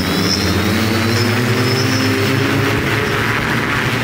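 Hoversurf hoverbike's propellers running steadily in flight, a loud even drone with a high whine on top.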